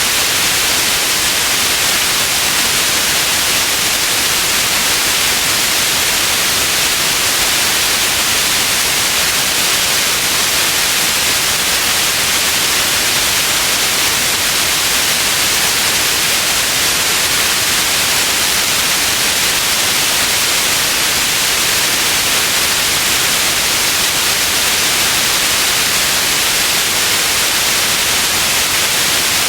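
Steady white noise: an even hiss, strongest in the high frequencies, with no change in level.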